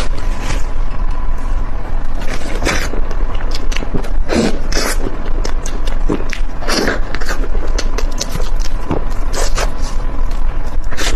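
Close-miked eating: a dense run of wet clicks and crackles from chewing, with several louder crunching bites spaced a second or two apart.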